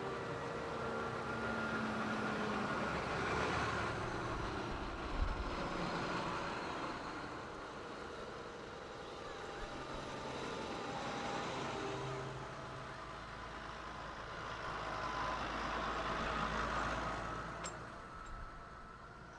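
Tractor engines running, the sound swelling and fading twice, with a brief sharp knock about five seconds in.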